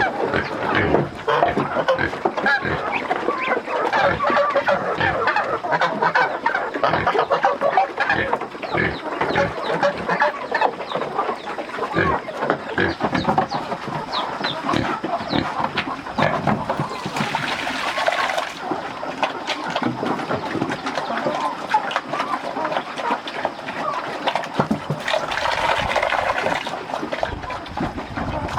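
A flock of farm poultry clucking and calling without a break. Two louder, hissier stretches come about two-thirds of the way in and near the end.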